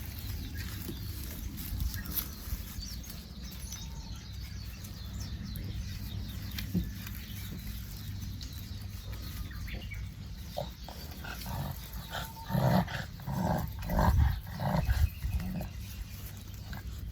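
Boston Terrier making a run of short, loud dog sounds, starting about twelve seconds in and lasting a few seconds, over a low steady background.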